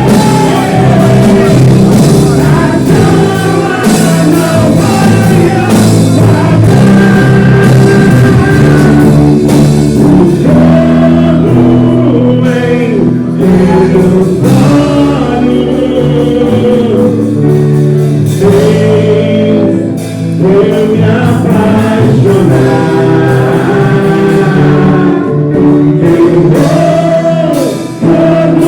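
Church praise band playing a worship song, with singing over the instruments.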